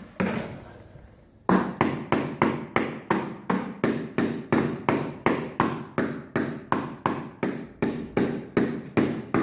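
A child hammering under a utility vehicle: after a single knock at the start, quick steady blows begin about a second and a half in, roughly three a second, each with a short ring.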